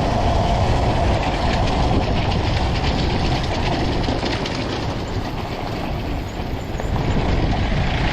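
Dirt bike engine running steadily, easing off slightly about five to seven seconds in.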